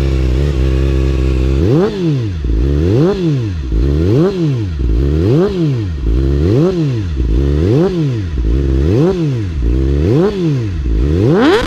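Yamaha R6 inline-four engine through an Akrapovič aftermarket exhaust, idling steadily, then revved up and down over and over, about once a second, with a higher rev near the end.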